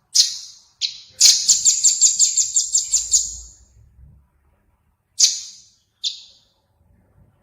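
Small songbird calling: sharp, high-pitched single notes, then a fast run of about a dozen repeated notes at roughly five a second, then two more single notes.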